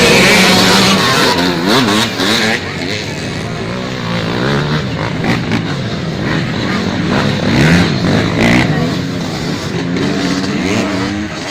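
Motocross dirt bike engines revving hard on the race track, their pitch repeatedly climbing and dropping through the gears as the bikes accelerate and back off.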